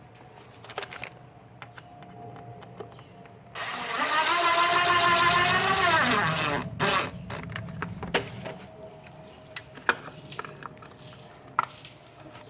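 Cordless drill/driver running for about three seconds while driving a screw, its motor whine dropping in pitch as it slows and stops. A few sharp clicks and knocks from handling parts follow.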